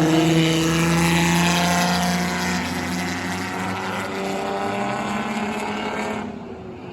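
Engines of several race cars running at speed together, their pitches sliding slowly downward as the pack passes and draws away. The sound is loudest at the start, eases off, and turns duller near the end.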